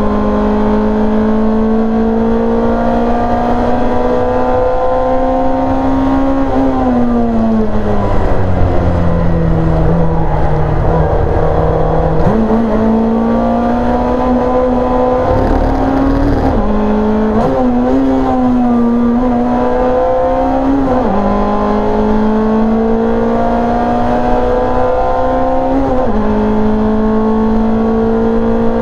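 Rear-engined Simca race car's engine at racing speed, heard from inside the cabin: the revs climb steadily in each gear and drop sharply at each upshift. About seven seconds in the revs fall away and stay low for several seconds as the car slows for a corner, then jump back up at a downshift before it pulls through the gears again.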